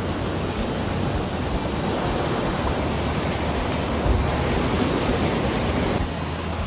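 Steady rushing of fast-flowing water close by, dropping slightly in level near the end.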